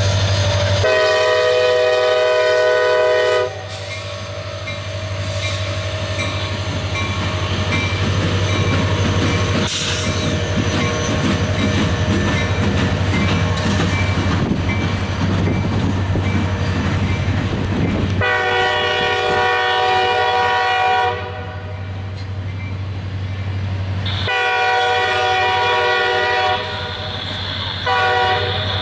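CSX diesel freight locomotive sounding a long blast on its multi-chime air horn over the steady hum of its engine, then the steel wheels of the autorack cars clattering over the rail joints as they roll past. About eighteen seconds in, the horn sounds again: long, long, then short, the opening of the long-long-short-long grade-crossing signal.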